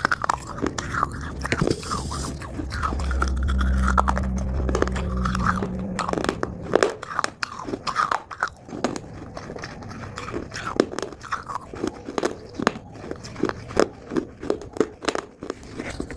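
Close-up crunching of dry Multani mitti (fuller's earth clay) being bitten and chewed, with sharp crackling crunches that come in quick runs in the second half. A steady low hum sounds under it from about 3 to 6 seconds.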